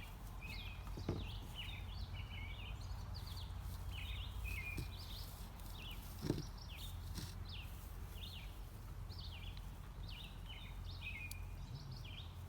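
Small birds chirping repeatedly, many short falling chirps, over a steady low outdoor rumble, with a couple of soft knocks about a second in and about six seconds in.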